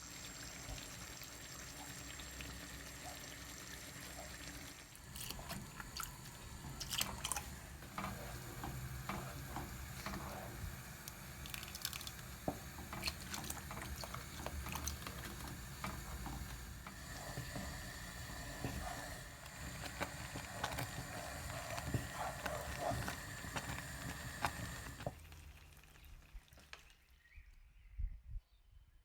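Water running and splashing in a sink, with scattered knocks and clinks, dying away near the end.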